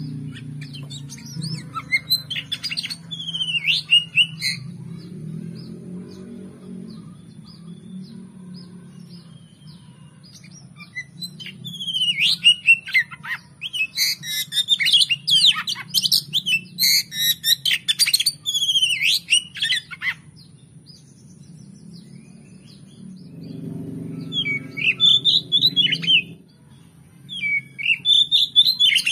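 Oriental magpie-robin (kacer) singing in several bursts of fast, varied whistles and chattering notes, the longest and loudest stretch in the middle, over a faint steady low hum.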